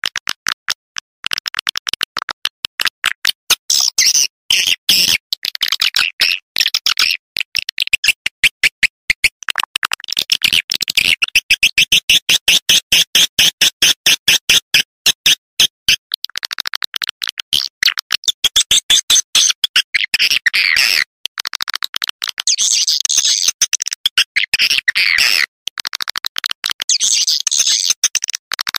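Swiftlet lure-call recording: rapid, dense clicking twitters and chirps of swiftlets, many per second and high-pitched, pausing briefly a few times.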